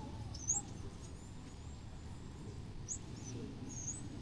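Small birds chirping: a handful of short, high, quick chirps, plus a thin high whistle about a second in, over a steady low hum of street background noise.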